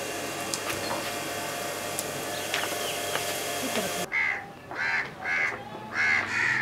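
A steady hiss with a few faint clicks cuts off about four seconds in. Then a bird gives five short, loud calls in quick succession.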